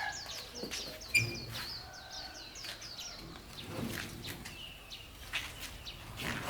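A bird chirping in a quick series of short, high, falling notes, with scattered light clicks and knocks in the background.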